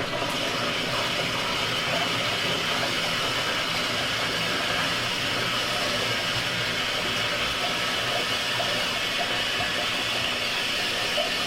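A steady hissing rush that goes on without a break or change, strongest in the upper-middle range.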